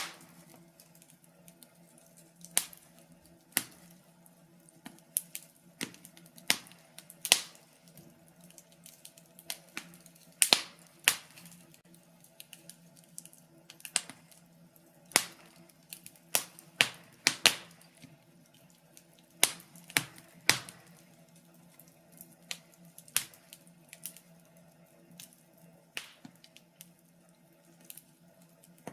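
Wood fire crackling: irregular sharp pops and snaps, some loud, a few in quick clusters, over a faint steady low hum.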